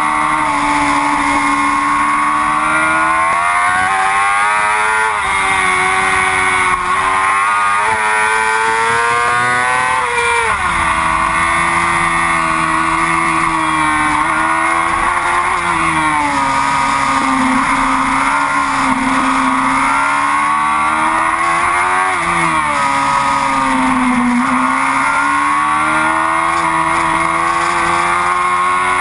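Yamaha R6 race bike's inline-four engine running hard at high revs, its pitch rising and falling continuously as the engine speed changes, with a sharp drop about ten seconds in.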